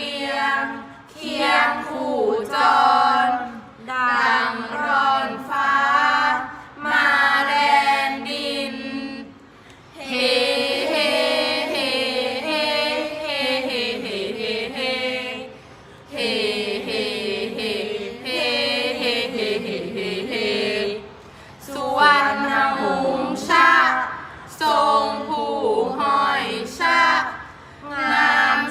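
Thai royal barge chant (kap he ruea) sung by young voices in unison: short sung phrases, then two long melismatic held lines with a wavering pitch about a third of the way in, then short phrases again.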